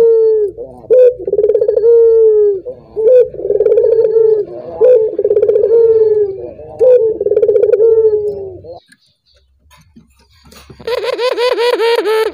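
Male ringneck dove (burung puter) cooing: a steady series of rolling coos, about one a second, which breaks off about nine seconds in. After a short pause a denser coo starts near the end.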